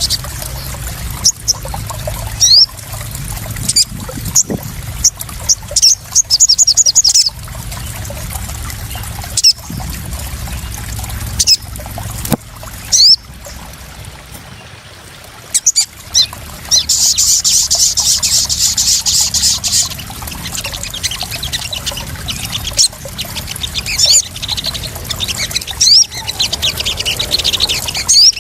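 Crimson sunbird (sogon) calls: thin, high chirps and quick trills, with a longer, louder trill from about seventeen to twenty seconds in, over trickling, splashing water.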